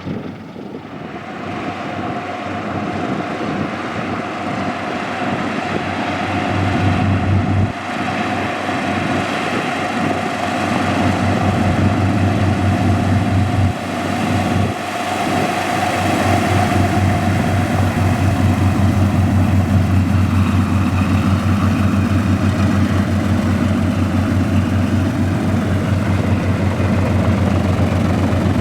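Lockheed P-38 Lightning's twin Allison V-12 engines running, a low, even throb with a steady tone above it, growing steadily louder.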